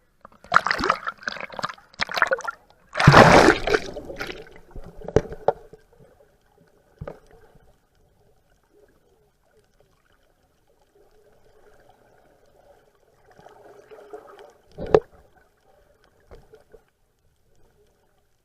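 Water splashing and sloshing around a boat, with a run of loud splashes in the first few seconds, then fainter lapping and a single sharp knock about fifteen seconds in.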